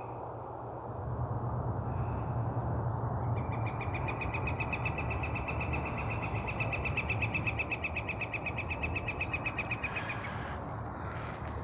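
A long, even, rapid trill on one steady high pitch, starting a few seconds in and lasting about six seconds, over a steady low background hum.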